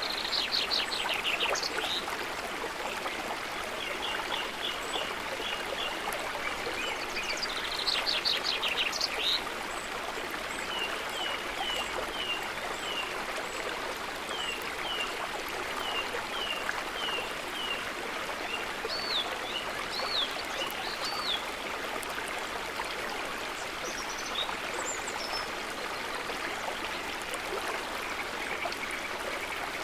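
River water running steadily, with a bird singing over it: quick trills near the start and again about eight seconds in, then runs of short repeated chirps and a few higher notes later.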